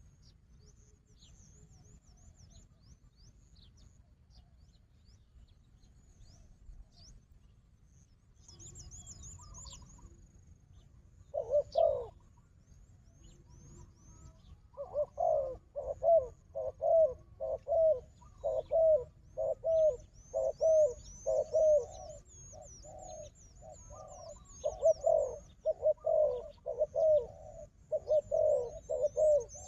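Spotted dove cooing: a single coo about eleven seconds in, then a fast run of short coos about two a second. Thin high chirps of small birds run above it.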